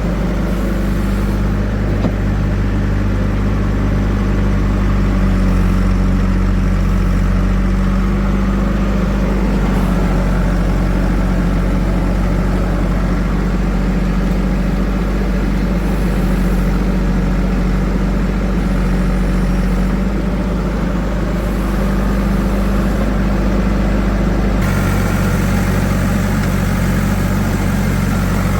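A heavy diesel engine running steadily at an even, low pitch, with no revving; the sound shifts abruptly about 24 seconds in.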